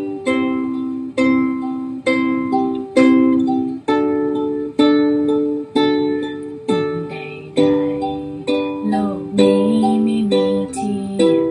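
Ukulele strummed in steady chords, about one strum a second, playing the song's intro starting on G. About seven seconds in, a voice starts singing along with the strumming.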